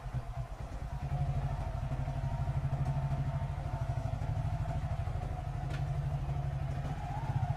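Small motorcycle engine running at low speed, a steady low pulsing with an even whine above it, easing off briefly about a second in; a single faint click near the end.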